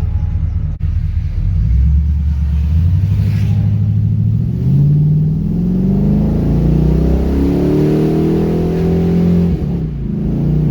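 LS V8 engine in a swapped Pontiac Firebird accelerating under load: the revs climb, step up in pitch about halfway through and keep rising, then drop away near the end. It runs clean, with no misfire, on new spark plug wires.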